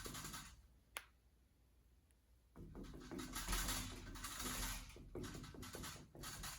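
Paintbrush loaded with acrylic paint scratching across canvas in short repeated strokes, with a single sharp click about a second in and a short pause before the strokes start again.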